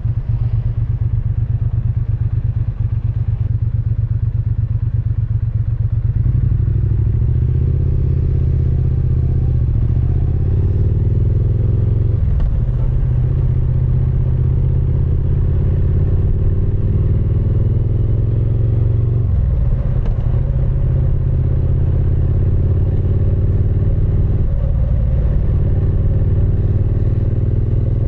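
Triumph Speed Twin 900's parallel-twin engine and exhaust on the move. It runs with a low steady rumble for the first few seconds, then pulls away, its note rising through each gear with brief breaks at the gear changes.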